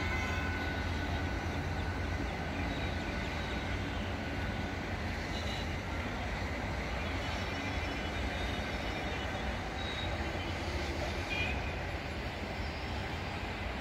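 Suburban electric multiple-unit (EMU) train pulling away from the platform, a steady low rumble that eases slightly as it recedes.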